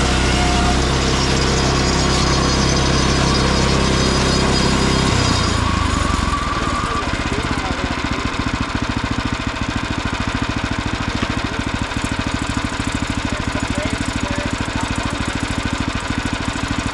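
Small gasoline engine of a bandsaw sawmill running at high throttle, then throttled back about five seconds in and idling steadily with rapid, even firing pulses.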